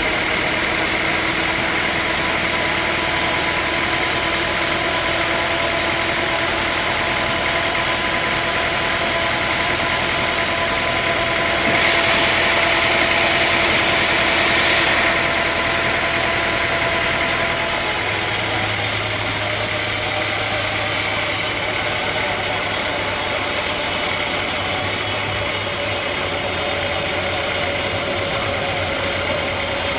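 Sawmill machinery engine running steadily. About twelve seconds in a louder hiss rises over it for about three seconds. The low hum of the engine shifts a little a few seconds later.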